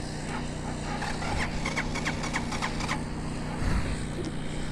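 A failed start attempt on a Vitacci Raven 250 dirt bike with a weak battery: a quick run of light clicks, then a dull thump, over a steady low hum. The engine does not catch.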